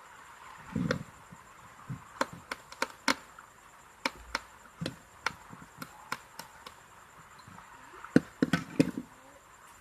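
Irregular clicks and light knocks of an electric iron's parts being handled and fitted back together during reassembly. There is a duller thump about a second in and a quick cluster of clicks near the end.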